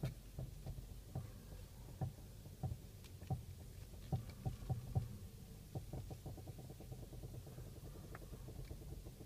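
Knocks and clicks from the steering and front suspension of a VW Golf 6 on Bilstein B14 coilovers as the wheel is turned, over a low steady rumble. The knocks come irregularly for the first five seconds, then turn into a quicker run of fainter ticks.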